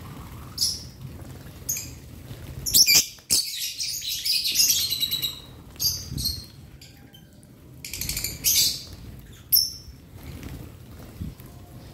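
Lovebirds chirping in an aviary: short, sharp, high-pitched calls repeated throughout, with a busy stretch of rapid chattering about three seconds in and another cluster near the end.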